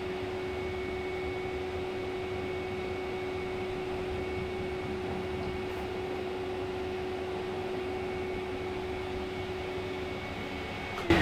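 Pet-grooming dryer blowing steadily on a freshly bathed puppy: an even rush of air with a steady motor hum.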